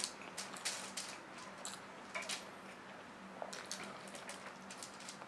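Close-up sounds of eating rice by hand: chewing with irregular short, wet lip smacks and small clicks.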